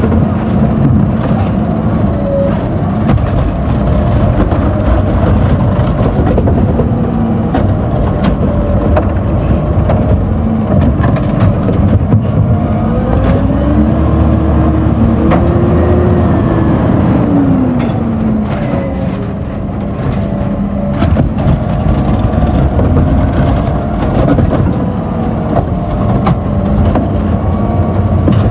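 Garbage truck engine running loudly, revving up about halfway through and settling back down a few seconds later.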